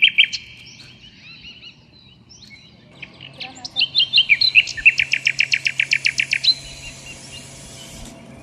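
A songbird singing: after a quieter stretch of scattered chirps, a fast trill of short repeated high notes runs for about three seconds from roughly halfway in, then stops.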